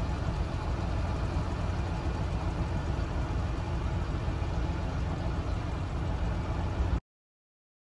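Idling vehicle engine: a steady low rumble, which cuts off abruptly about seven seconds in.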